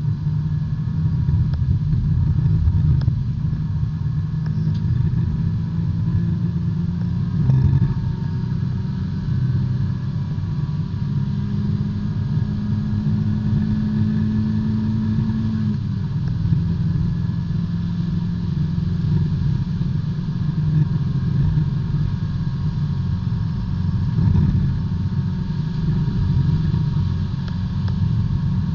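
B-Spec race car's small four-cylinder engine running at fairly steady revs, heard from inside the cockpit over constant road and tyre noise. The engine note steps up a little for a few seconds near the middle, then settles back.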